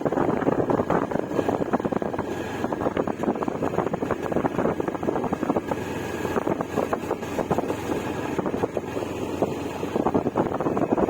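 TVS Apache RTR 160 4V motorcycle's single-cylinder engine running steadily while riding, with wind buffeting the microphone.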